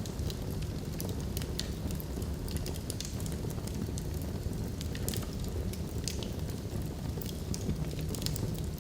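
Wood log fire burning in a fireplace: a steady low rumble of flames with frequent irregular crackles and pops from the burning logs.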